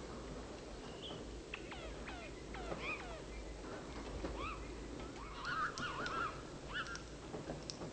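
Wild birds calling outdoors: a run of quick downward-sliding whistled notes, then a busier cluster of wavering calls a little past the middle, over a low steady rumble.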